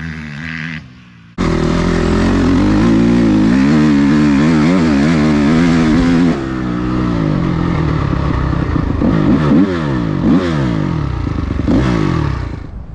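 Dirt bike engine revving under hard riding, its pitch climbing and dropping again and again with the throttle and gear changes. The sound breaks off and jumps back in at full volume about a second in.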